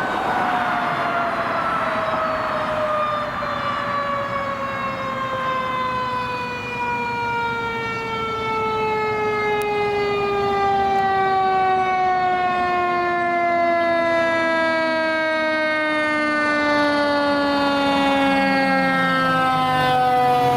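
Fire engine's mechanical siren winding down: one long wail whose pitch falls slowly and steadily for about twenty seconds.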